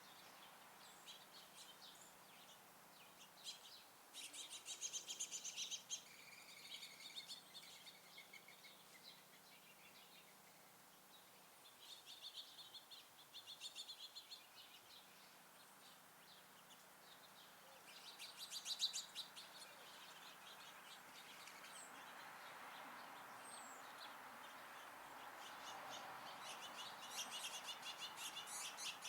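Small songbirds chirping, in several bursts of quick, rapidly repeated twittering notes, with a soft rushing noise swelling in the second half.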